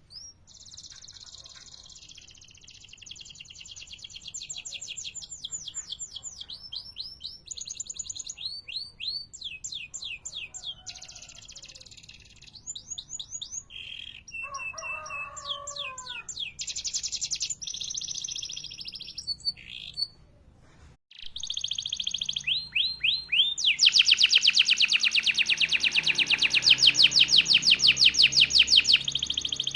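Male domestic canary singing a string of rapid trilled rolls, some high and some lower. There is a short break about two-thirds of the way through, then a long, fast roll that is the loudest part.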